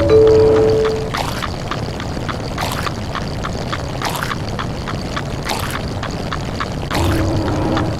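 A dense, fast-cycling stack of meme sound effects with no speech: rapid clicks and pops throughout, over a running mix that includes a pouring-water effect. A low-pitched two-note doorbell chime, falling from the higher note to the lower, sounds at the start, and another low tone comes about seven seconds in.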